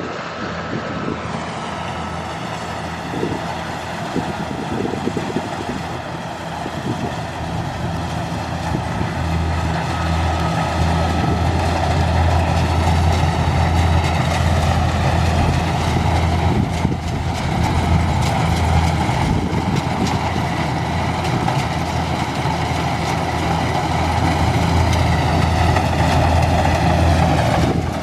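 Kubota combine harvester's diesel engine running steadily, its deep hum growing stronger about nine seconds in as the machine takes on more revs or load.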